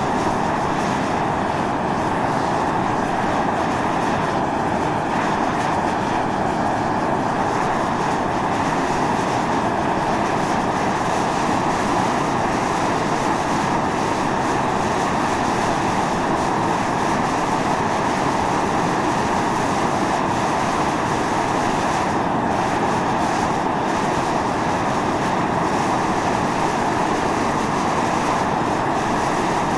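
Volcanic fumarole blowing out steam: a steady, unbroken rushing hiss that does not change.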